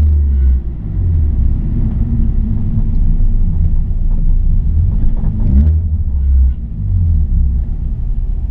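Subaru Impreza's flat-four boxer engine running at light load with road and cabin rumble, heard inside the car, with a short rising rev a little past halfway.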